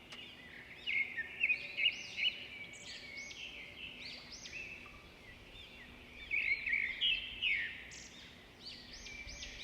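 Many small caged birds chirping and chattering together in a dense, overlapping chorus of short high calls, swelling in loudness about a second in and again around two-thirds of the way through.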